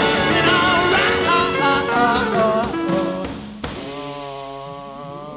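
Live rock band playing with singing, which cuts off abruptly about three and a half seconds in with a click. A single held note follows and slowly fades.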